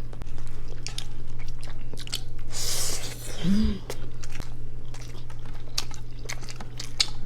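Close-miked chewing and wet mouth smacking of a person eating soft, fatty braised pork adobo with rice, with a short rush of breath about a third of the way in and a brief closed-mouth "mm" just after.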